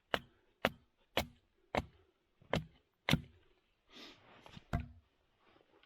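Small hatchet chopping dry, resinous wood into kindling chips: about two sharp chops a second for the first three seconds, then a short rustle and one last chop near the end.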